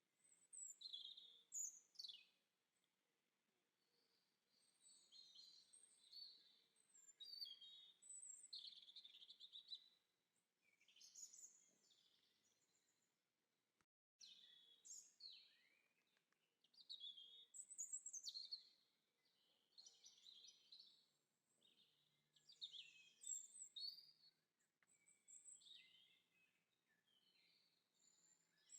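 Faint songbird chirping and singing, high twittering phrases of a second or two with short pauses between them, and a momentary cut in the sound about fourteen seconds in.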